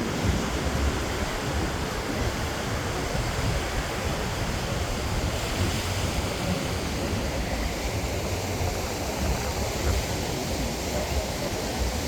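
Ocean surf washing on the beach, mixed with strong wind buffeting the microphone in uneven low rumbles.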